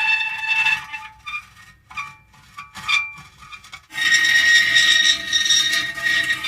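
Metal creaking: a drawn-out squealing creak that breaks off just under a second in, a stretch of short, quieter intermittent creaks, then a second long squealing creak starting about four seconds in.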